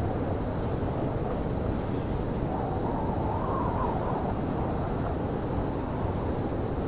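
Winter railyard ambience: a steady low rumble, with a thin high whine held constant above it. Near the middle a fainter tone rises and falls.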